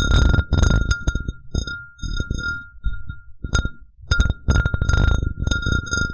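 Glass cup tapped and handled close to the microphone: irregular sharp taps, each leaving the glass ringing at one clear pitch. Low rubbing and scraping noise runs underneath.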